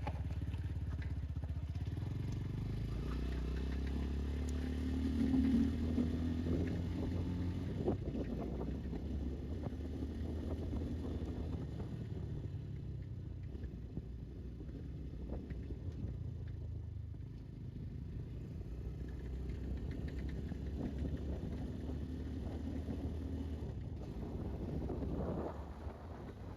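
Xpro 250cc motorcycle running while being ridden, a low steady engine hum. The engine note rises about five seconds in and again near the end.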